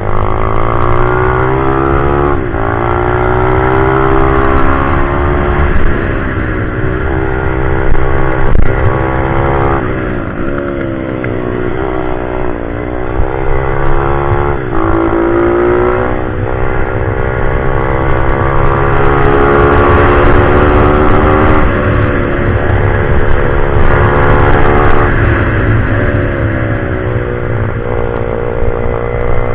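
Pit bike engine being ridden hard around a track, its revs climbing and then dropping sharply over and over as it shifts gear and slows for corners.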